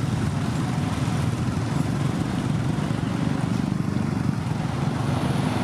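Heavy truck engine running steadily at a constant pace, low and unchanging.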